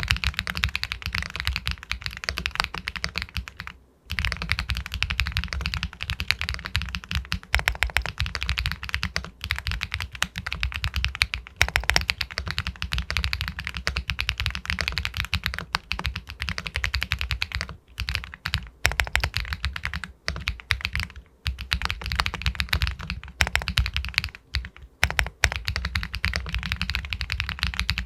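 Fast, continuous typing on an Epomaker Galaxy 80 Pro all-aluminium mechanical keyboard with White Jade linear switches: a dense run of keystroke clicks. There is a brief pause about four seconds in, and a few short ones in the second half.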